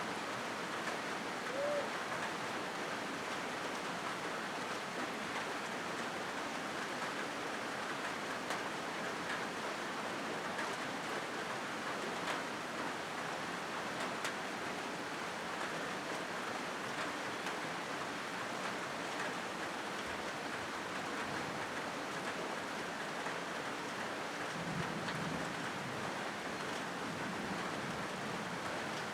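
Steady rain drumming on a corrugated metal roof.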